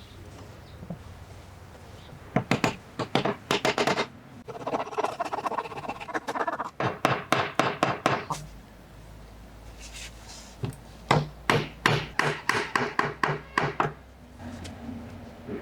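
Woodworking hand tool work on wood: three quick runs of sharp taps, several a second, with a stretch of scraping between the first two runs.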